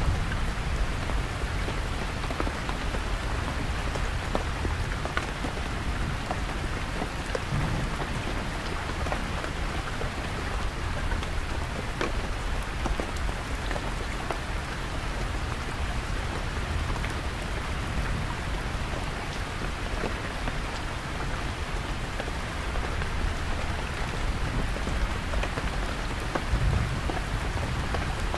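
Heavy rain drumming steadily on a canvas tent, with single louder drops now and then. Deep, distant thunder rumbles low underneath and swells a few times.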